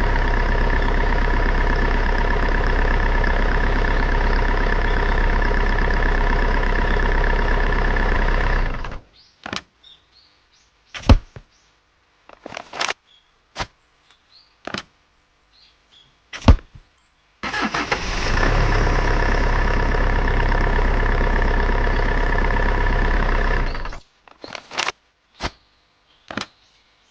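A small motor runs at a steady speed for about nine seconds and stops. A few sharp clicks and knocks follow, and then the motor runs steadily again for about six seconds before stopping.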